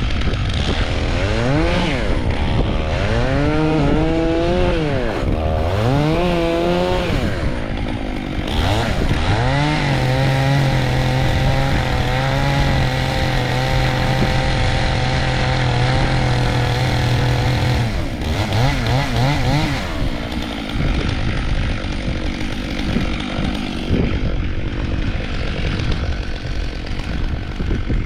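Gas chainsaw revving up and down several times. It is then held at a steady high speed for about eight seconds while bucking an ash log, and drops back to a lower, uneven running near the end.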